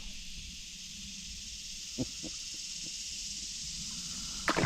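Steady high-pitched insect chorus, with a single knock about two seconds in and a couple of sharper clicks near the end.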